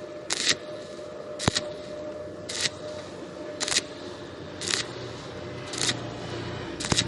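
Welding arc on thin steel box tubing, struck in short bursts about once a second. This is stitch welding to fill a gap without burning through, heard over a steady hum from the welding machine.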